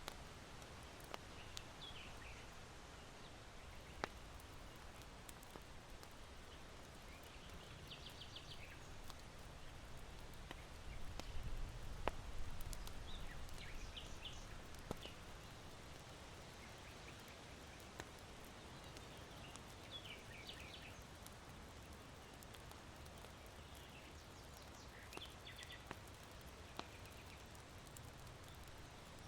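Faint ambience of an irori hearth's charcoal fire with occasional sharp pops, and small birds chirping in short bursts every few seconds. Wind in the bamboo swells low about halfway through.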